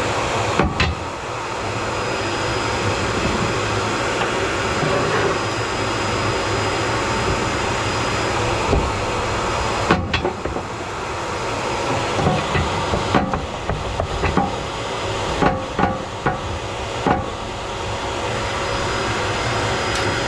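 Knocks and clunks as the stove's tight-fitting back brick is worked at to free it, a few sharp ones about a second in, near the middle, and a cluster in the second half, over a steady rushing noise.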